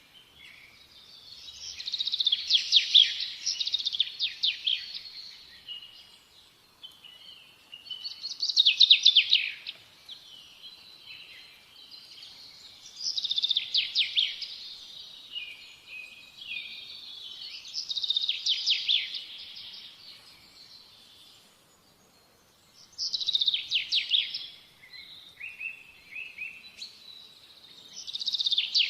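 Birds calling in repeated bouts of rapid, high chattering, each bout a second or two long and coming back about every four to five seconds.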